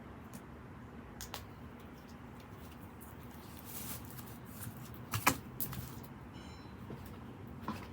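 Wood fire in a fire pit crackling, with a few sparse pops, the loudest about five seconds in, over a steady low background hum.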